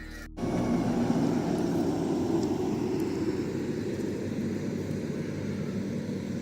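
An engine running steadily as a continuous rumble, starting abruptly about a third of a second in.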